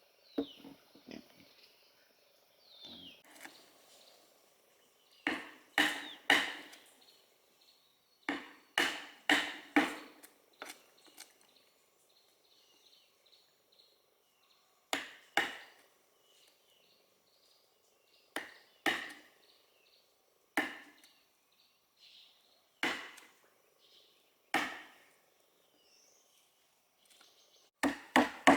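Wood being chopped with a blade: sharp strikes with a short ring, coming in irregular groups of one to four with pauses between. Birds chirp faintly in the gaps.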